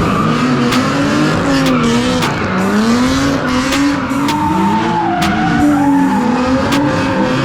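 Car tyres squealing in one long screech whose pitch wavers up and down, the sound of tyres spinning and sliding on pavement.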